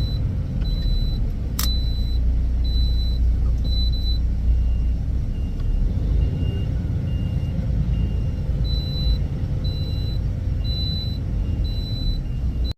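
Steady low rumble of a heavy vehicle engine with reversing alarms beeping at an even pace, about three beeps every two seconds. A high-pitched alarm beeps at the start, drops out after about four seconds, and comes back near the end; a lower-pitched alarm beeps in the middle, overlapping it. One sharp click comes in the second second.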